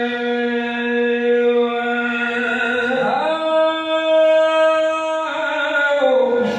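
A man's voice chanting a mourning recitation in long held notes: one low note held for about three seconds, a quick rise to a higher note held for about two seconds, then a sliding fall near the end.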